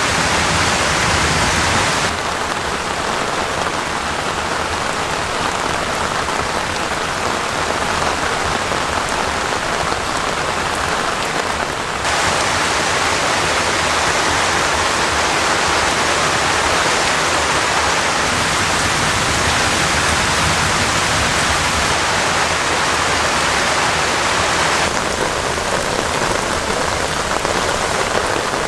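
Heavy rain falling steadily as a dense hiss. Its tone changes abruptly about two, twelve and twenty-five seconds in.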